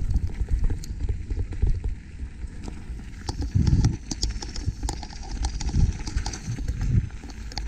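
Mountain bike running down a rough trail: steady wind and ground rumble on the microphone with irregular rattling and knocking from the bike over rocks and roots.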